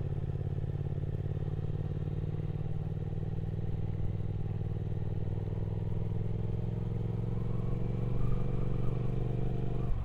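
Triumph Speed Twin 1200's parallel-twin engine running steadily on the move, its note holding at an even pitch and getting a little louder near the end.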